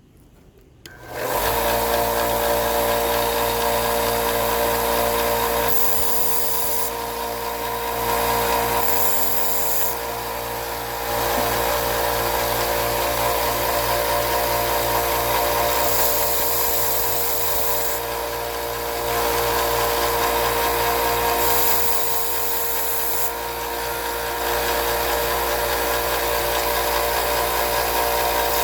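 An electric grinding tool starts up about a second in and runs with a steady motor hum. Four times, a hissing grind comes in for a second or two as steel is ground away to reprofile a broken knife blade into a new tip.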